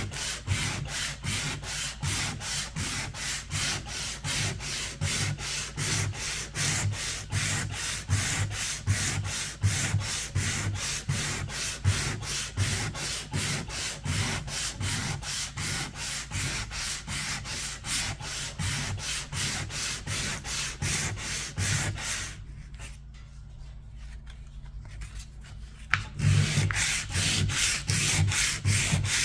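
Hand sanding of an old paint finish: sandpaper rubbed back and forth in quick, even strokes, a couple to three a second. The strokes stop for a few seconds near the end, then start again.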